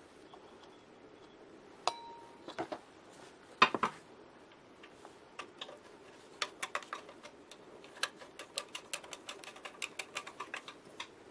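Metal parts clinking and tapping in a workshop. One strike rings briefly, a few louder knocks follow, then a run of quick light clicks.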